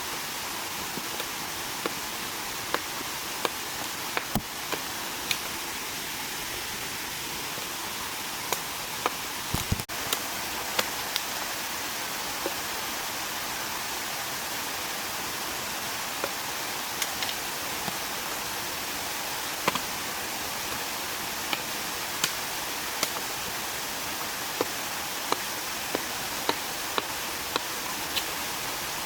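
Steady hiss of water, rain or a rushing stream, with irregular sharp ticks and taps scattered through it, roughly one a second.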